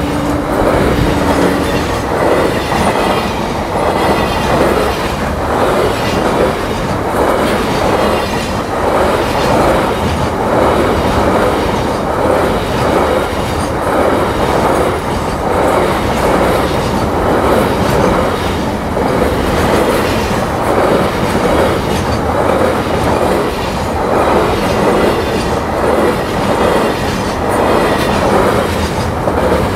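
A long freight train of covered wagons rolling past at speed close by: a steady loud rumble of wheels on rail with a regular clickety-clack over the rail joints, about once a second.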